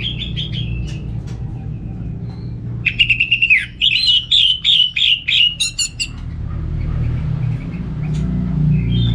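Orange-headed thrush singing in quick runs of repeated notes: a short run at the start, then a longer, denser run from about three seconds in to about six seconds, then only faint notes. A steady low hum sits under the song.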